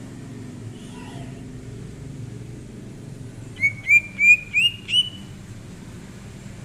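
Cucak ijo (green leafbird) singing a quick phrase of five short, clear whistled notes, each sweeping upward and each pitched a little higher than the last, about halfway through. A steady low rumble runs underneath.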